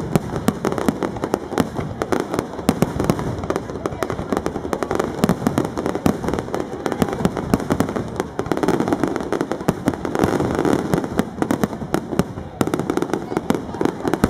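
Fireworks display: a dense, unbroken barrage of sharp bangs and crackles, many reports a second.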